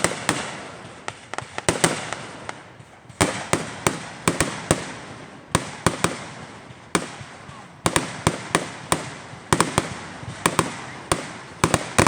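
Aerial fireworks going off in quick succession: a rapid, irregular string of sharp bangs, several a second at times, each trailing into a rumbling echo that fades.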